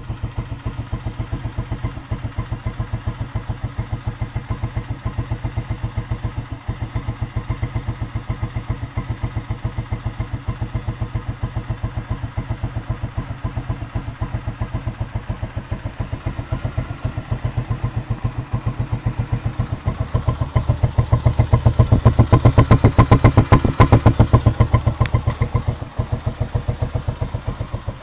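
Honda CG 125 Fan's air-cooled single-cylinder four-stroke engine idling with an even pulsing beat; about twenty seconds in it rises and gets louder for a few seconds, then drops back to idle.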